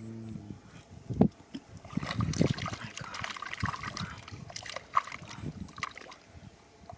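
Shallow field water splashing and trickling, with a sharp knock about a second in and a busy stretch of splashing and small clicks in the middle.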